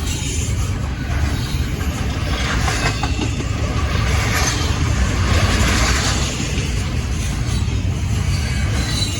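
Freight train rolling past: a steady, loud rumble and the wheel noise of the railcars on the track.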